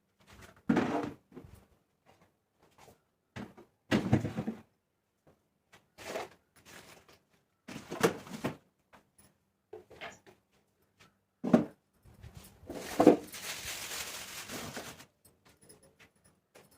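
Food containers and items being put into a refrigerator: a series of separate knocks and clatters as things are set on the shelves and the fridge doors and drawers open and close, with a longer noisy stretch about thirteen seconds in.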